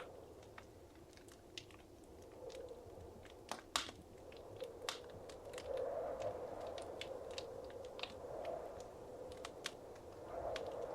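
Wood fire crackling: irregular sharp pops and snaps, the loudest about four seconds in, over a steady low rushing of the flames.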